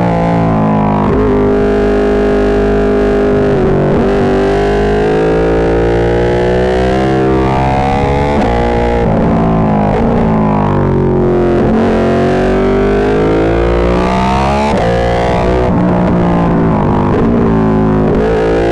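Ducati 1299 Panigale's L-twin engine through an Austin Racing GP2 full exhaust system, pulling hard under acceleration, its pitch climbing and falling with several sudden drops at gear changes. The sound is harsh and distorted because the microphone sits too close to the exhaust and overloads.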